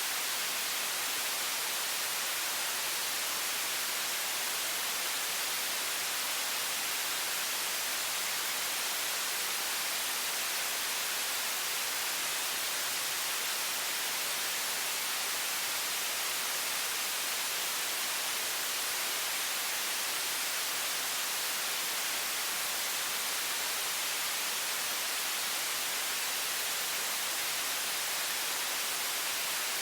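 High-pressure water stream from a faucet, a bright, even, unchanging hiss used as white noise.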